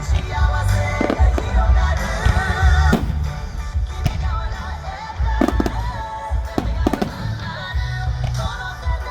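Fireworks going off, with deep booming and several sharp cracks, mixed with music that has a wavering melody.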